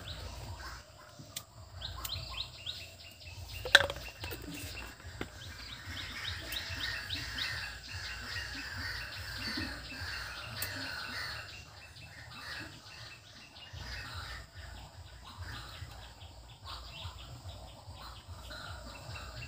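Small birds chirping over and over, thickest in the first half, with one sharp knock about four seconds in.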